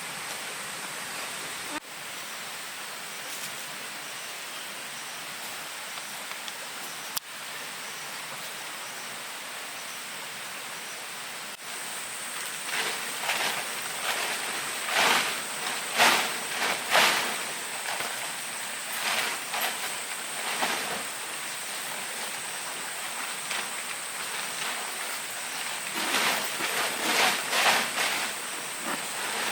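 Steady outdoor background noise with a constant high-pitched whine. From about twelve seconds in comes a run of irregular short rustling noises, loudest around sixteen and twenty-seven seconds.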